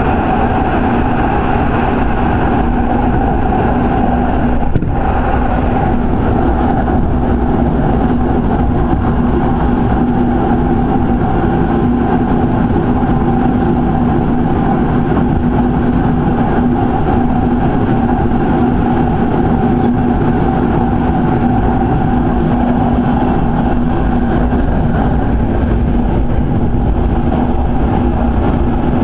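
Electric commuter train running between stations, heard from inside the carriage: a steady rumble of wheels on rail with a steady motor and gear hum. One sharp click comes about five seconds in.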